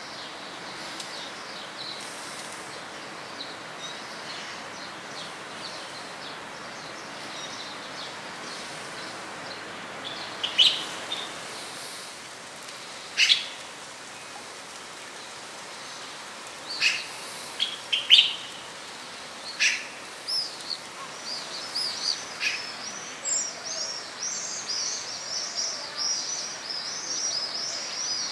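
Birds calling over a steady background hiss: a handful of short, sharp high calls from about ten seconds in, then a fast run of high chirps through the last several seconds.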